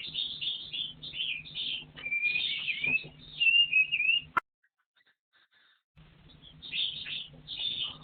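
Partridge calls: a run of high chirping and whistled notes with sliding pitch, cutting off abruptly a little past halfway, then after a short silence the calls start again.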